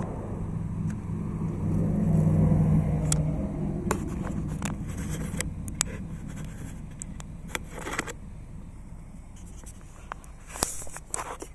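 A motor vehicle's low engine hum swells about two seconds in and then fades away. Sharp clicks and scrapes follow from the camera and its car mount being handled, as the camera is taken down off the car.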